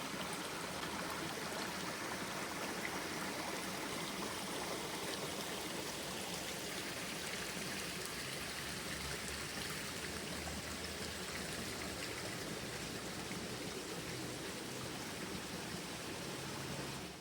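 Water flowing steadily in a small stream, an even, continuous sound of running water.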